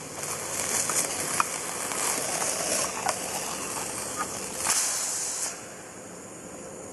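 Hamburger sizzling in a Jetboil fry pan on a camp stove, a steady hiss that swells now and then, with a few light taps of a bamboo spoon. The sizzle drops off about five and a half seconds in.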